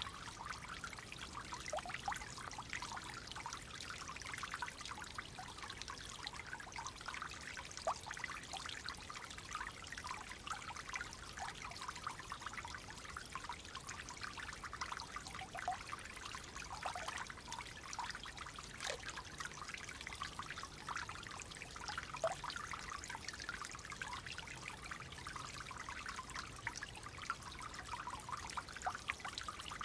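Clear water flowing gently in a small stream, trickling and burbling steadily over stones.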